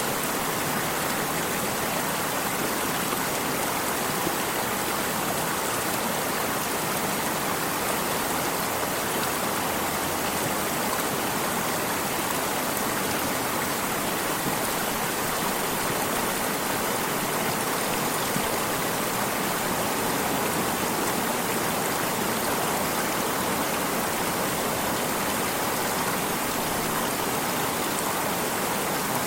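Water of a stream flowing and babbling steadily, a constant even rush with no breaks.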